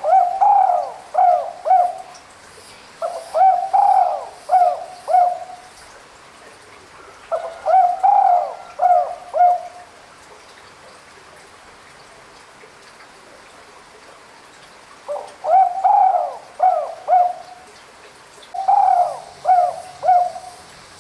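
Spotted dove cooing: five repeated phrases, each a few arched coos followed by two or three short clipped notes, with a pause of about five seconds between the third and fourth phrase.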